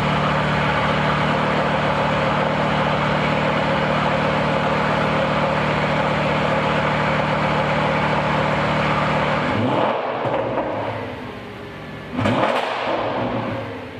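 Audi S6's 5.2-litre V10 through a Milltek aftermarket exhaust, idling steadily, then changing note about ten seconds in and given a sharp rev near the end that rises and falls away.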